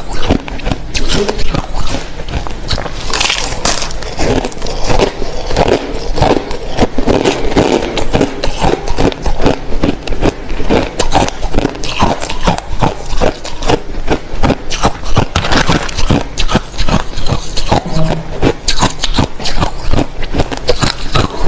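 Close-up chewing of hard, clear crushed ice: a dense run of loud crunches and cracks, several a second, as the ice is bitten and ground between the teeth.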